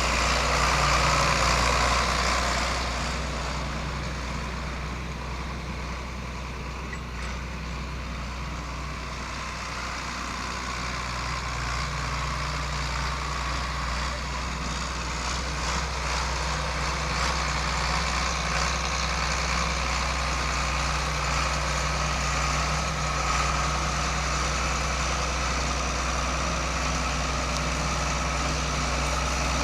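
1978 John Deere 4640 tractor's six-cylinder diesel engine running steadily at a low, even speed. It drops in level for several seconds early on, then grows louder again with a thin high whine over the engine note.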